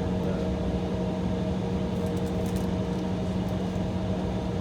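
Steady cabin drone inside an Embraer E175 jet holding on the taxiway: its idling engines and air-conditioning system running as an even hum with a few constant tones.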